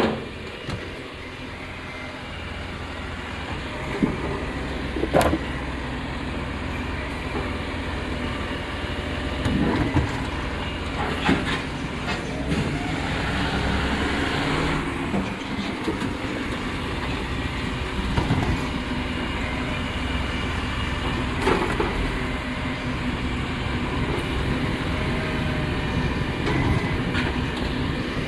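A road vehicle in motion: a steady low rumble with rattles and a few sharp knocks every several seconds.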